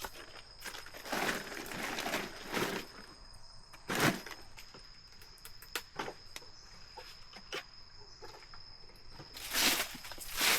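Several brief crunching, rustling bursts, footsteps or handling in leaf litter and brush, the sharpest about four seconds in and a cluster near the end, over a steady high-pitched insect drone.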